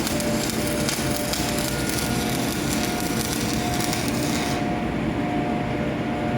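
Shielded metal arc (stick) welding with a 6013 electrode at 115 amps: the arc crackles and sizzles steadily, then cuts off sharply about four and a half seconds in. A faint steady hum continues underneath.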